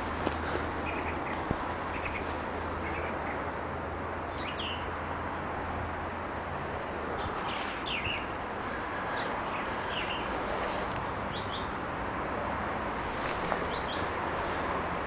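Wild birds chirping in short scattered calls over a steady outdoor background noise.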